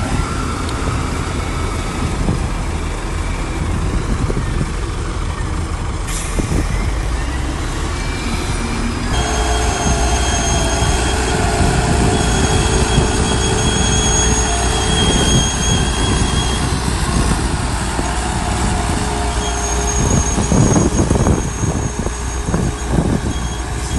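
Heavy diesel earthmoving machinery running steadily under load. About nine seconds in, a high whine made of several steady pitches joins it and comes and goes.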